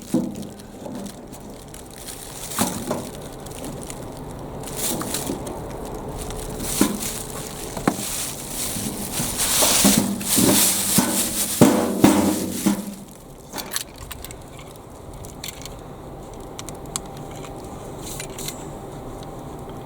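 Potatoes being handled and tipped into a container for weighing: irregular knocks, thuds and rustling, busiest about ten seconds in, then a few scattered clicks.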